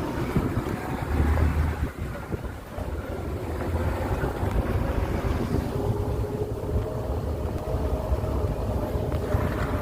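Vehicle running on the move, with a steady low engine rumble and wind buffeting the microphone.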